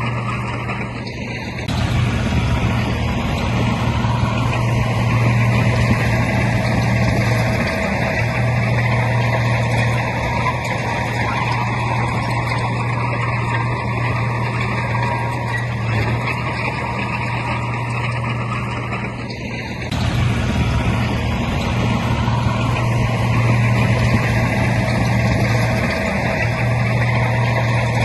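Heavy diesel earthmoving machinery running under load: a steady low engine drone with grinding mechanical noise. It dips briefly, then grows louder about two seconds in and again about twenty seconds in, as the engine takes on more load.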